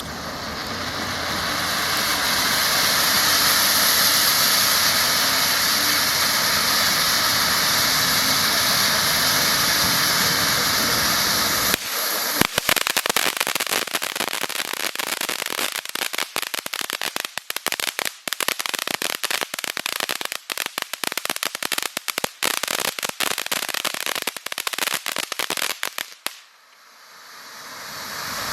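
Dominator "Soccer" consumer firework fountain spraying with a steady hiss. About twelve seconds in it changes to dense crackling, which runs for some fourteen seconds. The crackle dies away briefly, then a fresh hissing spray swells up near the end.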